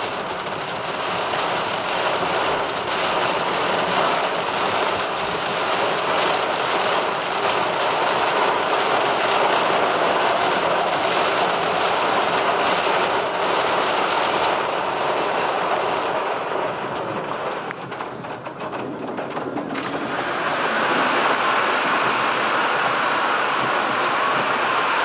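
Heavy rain falling on a car's roof and windscreen, heard from inside the cabin: a steady dense hiss that eases for a couple of seconds about eighteen seconds in, then comes back.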